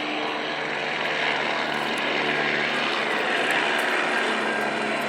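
Helicopter flying overhead: a steady engine and rotor noise over a low hum, growing slightly louder.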